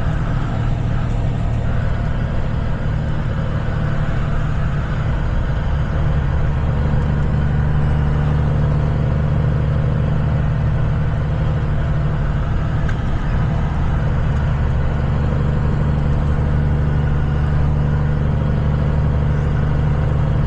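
Kenworth semi truck's diesel engine running at a steady cruise, with a deep, even drone and road noise heard from inside the cab.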